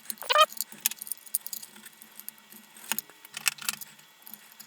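Small clicks and rattles of plastic and metal parts as the lantern's flasher-light housing is taken apart to reach the bulb. The loudest cluster comes near the start, and there are more clicks about three seconds in.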